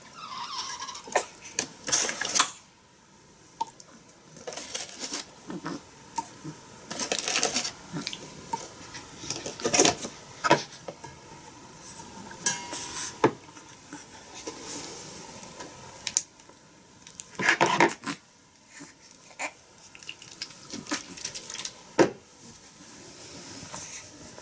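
Irregular rustling with scattered clicks and knocks from handling a baby during a nappy change.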